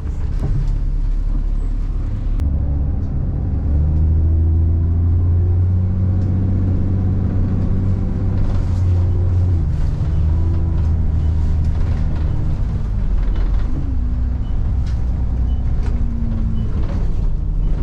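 Bus engine running, heard from on board as the bus drives, its note shifting up and down. It is loudest for a stretch from about four to ten seconds in.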